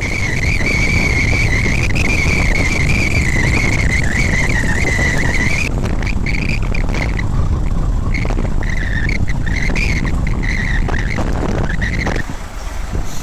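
A heavy machine's diesel engine runs hard in snow under a high, wavering squeal. The squeal holds for about six seconds, then breaks up into short bursts and stops near the end.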